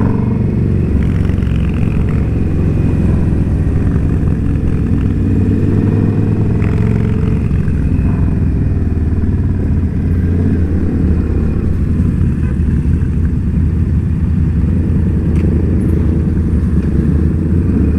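Indian Scout Bobber's V-twin engine running steadily as the motorcycle cruises, a constant low drone with no clear revving up or down.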